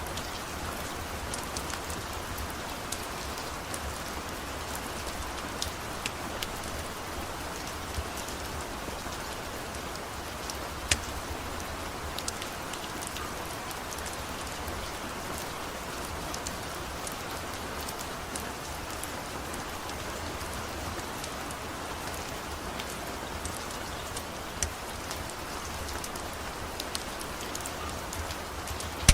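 Steady rain, with sharp crackles and pops from a wood fire now and then.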